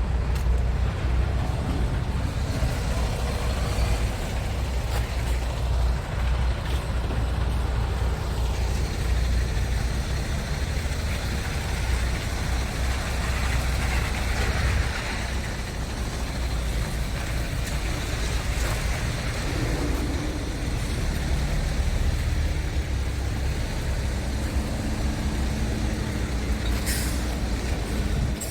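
Scania R-series truck tractor unit's diesel engine running steadily with a deep low rumble. A hiss rises and fades about halfway through.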